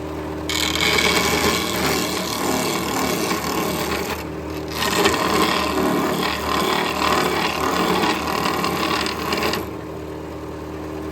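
A power tool working wood in two long noisy passes, with a short break about four seconds in, stopping near the end, over the steady hum of a running machine motor.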